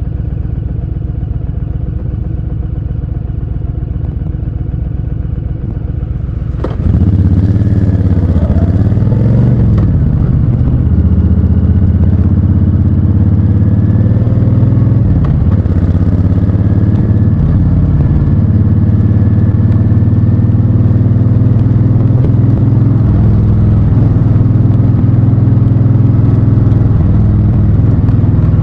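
Honda Fury's V-twin engine running steadily at low revs, then about seven seconds in it suddenly gets much louder and revs up and down in pitch a few times, as when the bike pulls away and shifts, before settling into a steady loud run.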